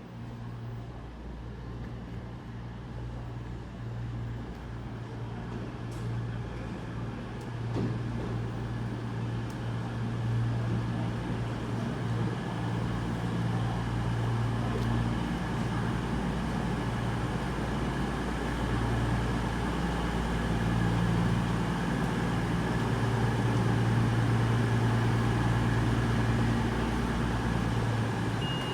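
Diesel multiple-unit train engines running at a station: a steady low hum that grows gradually louder.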